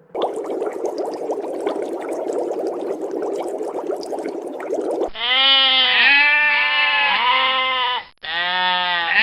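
A steady, noisy din for about five seconds, then a sheep bleating loudly, several wavering bleats in a row with a brief break near the end.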